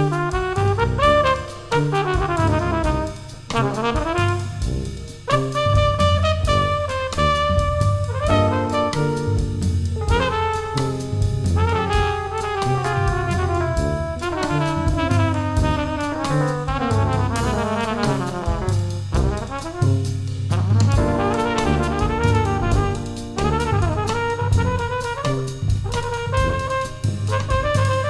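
Small jazz brass ensemble playing: trumpets and baritone saxophone in harmonized lines over a tuba bass, with a drum kit keeping time.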